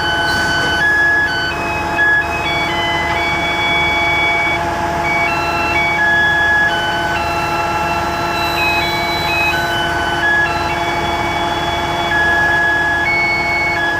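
A simple electronic beeping tune, one clean note at a time changing about every half second, like a heavy truck's musical warning chime. Under it runs a steady machine whine and a rough engine hum.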